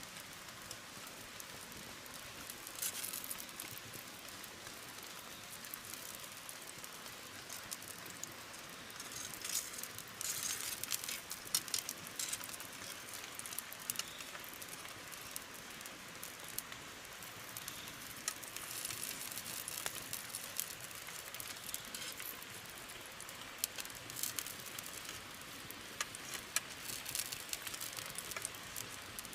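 Steady rain pattering on a surface, with scattered sharp ticks of drops that come thicker about ten seconds in and again around twenty seconds.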